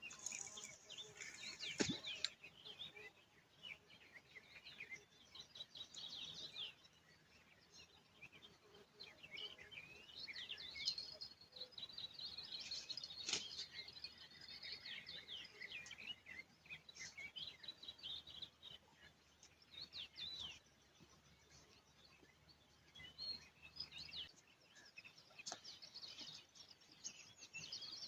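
Faint morning birdsong: several small birds chirping and singing in short phrases, with an occasional sharp click.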